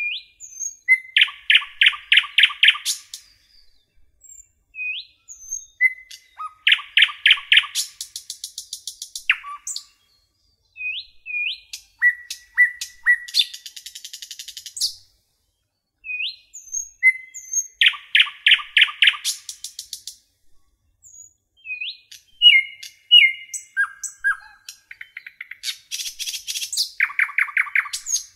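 A songbird singing the same song over and over, a phrase about every five to six seconds. Each phrase opens with short upward-hooked whistled notes and runs into a fast, buzzy trill of repeated notes.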